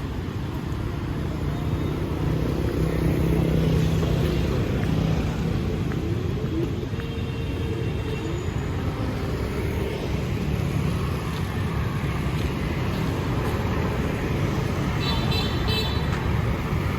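City road traffic of motorbikes and cars passing steadily, engines rising and falling as they go by, with a short high beeping about fifteen seconds in.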